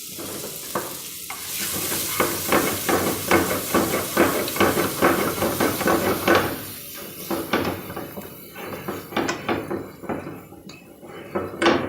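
A utensil knocking and scraping in a frying pan as green peas are stirred with spices in sizzling oil, about four strokes a second. The stirring slows and the sizzle fades toward the end, and one louder knock comes just before the end.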